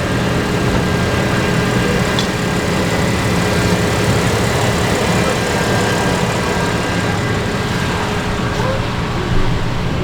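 A steady low machine hum that runs without change, with a few faint steady tones above it.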